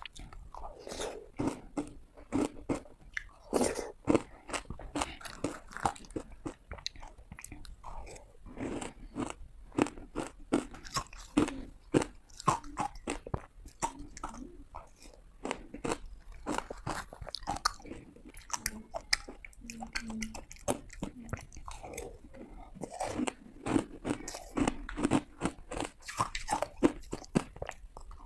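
A person biting and crunching hard ice close to the microphone: a rapid, irregular run of sharp cracking crunches as the ice breaks between the teeth, with chewing in between.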